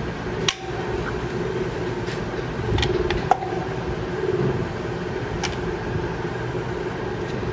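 A machine running with a steady hum, with a few sharp clicks over it, the sharpest a little before the middle.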